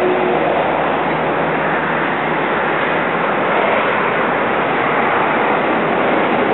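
A long rake of passenger coaches rolling past on the rails: a steady, even noise of wheels on track, without distinct beats.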